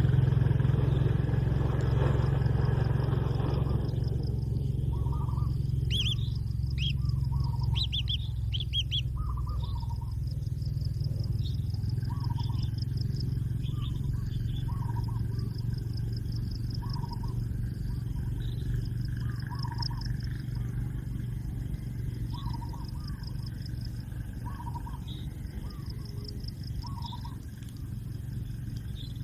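Outdoor ambience: a bird repeating a short call every second or two, with a few higher chirps early on, over a steady insect-like trill and a low hum. A rushing noise fades out in the first few seconds.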